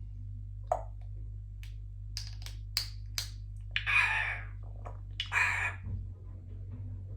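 Congo African grey parrot making a run of about five sharp clicks, then two short, harsh, noisy calls, over a steady low hum.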